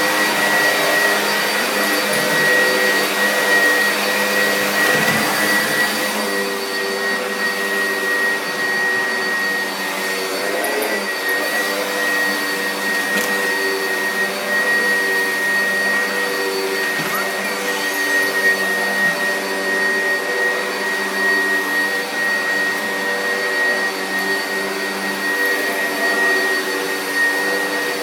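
Vacuum cleaner running steadily: a high whine over a lower motor hum. The hum's pitch shifts slightly about six seconds in.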